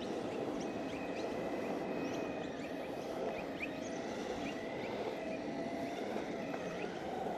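Exway Flex Pro V3 electric skateboard cruising over asphalt: a steady rolling rumble from the wheels with a steady motor whine over it. Short high chirps are scattered throughout.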